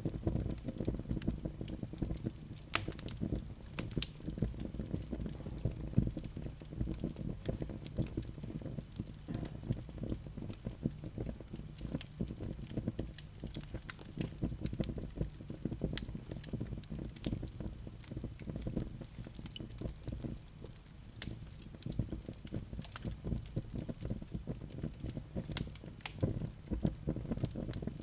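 Wood fire burning in a fireplace, with a steady low rumble of the flames and dense, irregular crackling and occasional louder pops of the burning logs.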